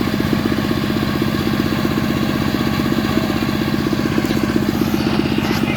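Stihl two-stroke chainsaw engine running steadily at an even speed.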